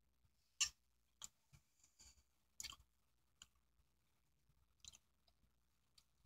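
Faint close-up chewing of a mouthful of fried rice: a handful of short, sharp wet mouth clicks and smacks, spaced irregularly, over near silence.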